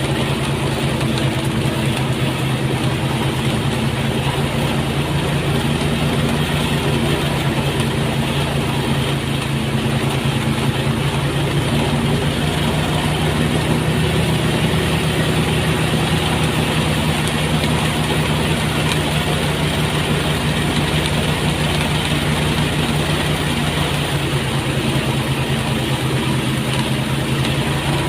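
Engine-driven rice thresher running steadily: an even engine hum with a constant hiss of noise over it.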